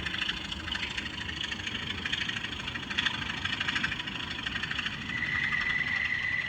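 Locomotive running sound from a model railway sound decoder, with a steady engine-like churn pulsing irregularly. A steady high whistle-like tone comes in about five seconds in.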